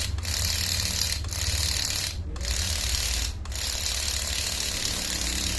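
Miniature single-cylinder model engine running with a fast, steady rattling buzz, dropping out briefly several times.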